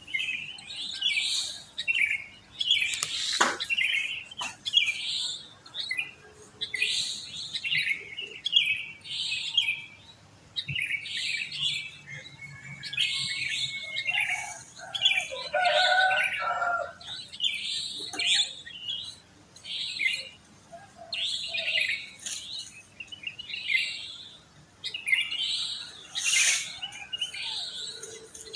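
Wild sooty-headed bulbuls (kutilang) calling in a chorus: many short, bubbly chirping phrases overlapping one after another. About halfway through, a lower-pitched call from another bird joins them briefly.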